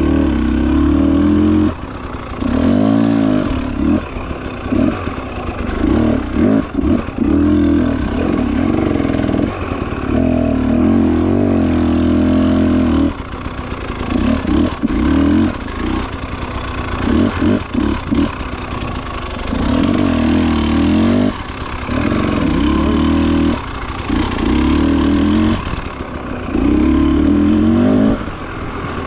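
Motorcycle engine under way on a trail, the throttle opened and rolled off again and again so the engine note swells for a second or a few and then drops, its pitch rising and falling.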